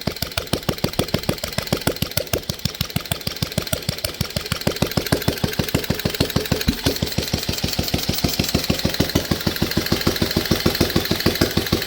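BMW R35's single-cylinder four-stroke engine running at a fast idle on a test run after rebuild, with evenly spaced firing beats that quicken slightly about halfway through.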